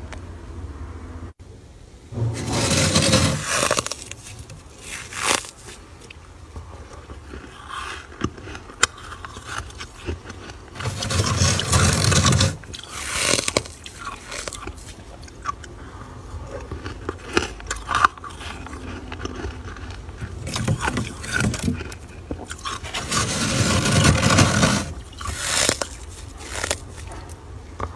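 Frost being scraped off the inside of a freezer. There are louder stretches of scraping about 3, 12 and 24 seconds in, with many small sharp clicks between them.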